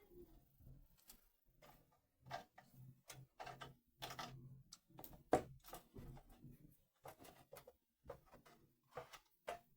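Irregular small clicks and scrapes of hand tools working the end of an electrical wire, stripping it for a new crimp lug.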